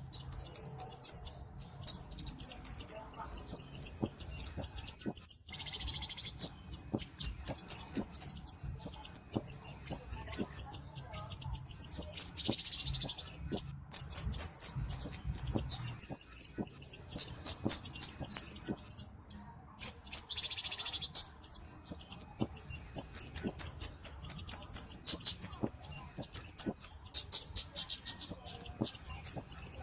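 Kemade (cabe-cabean) flowerpecker calling in long runs of rapid, very high, thin ticking notes with short breaks. A few brief hissy, rasping bursts come in between the runs.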